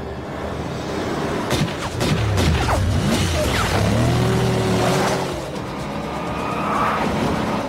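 Film chase soundtrack: a car engine revving up and down with tyre squeal, over music. There are a few sharp knocks about a second and a half in.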